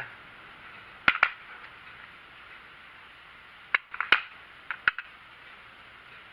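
Scattered sharp clicks and taps: two close together about a second in, then a small cluster around four seconds in, over faint room hiss. They are typical of small steel parts being handled and set down on a bench.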